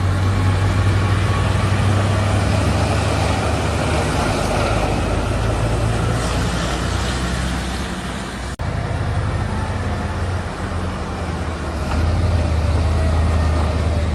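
Heavy diesel machinery engine running steadily with a deep hum. It breaks off for an instant at a cut about eight and a half seconds in, then goes on.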